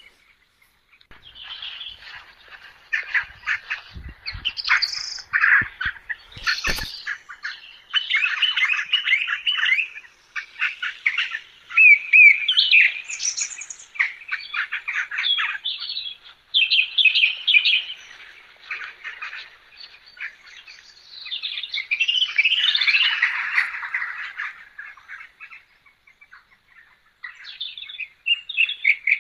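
Birds chirping and calling in a continuous chorus of short chirps and trills, with a few soft knocks about five seconds in.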